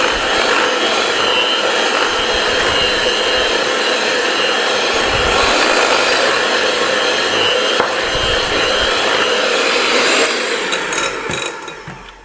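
Electric mixer running steadily at speed, beating the cream cheese and peanut butter pie filling, then winding down and stopping near the end.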